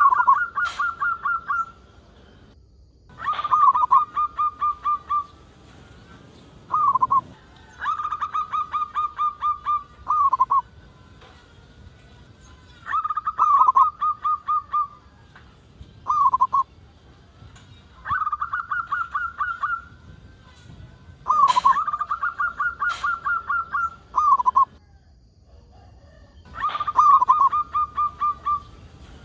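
Zebra dove (perkutut) singing: phrases of rapid, evenly repeated cooing notes, each phrase one to three seconds long and some ending in a short separate note, about eight phrases with brief pauses between.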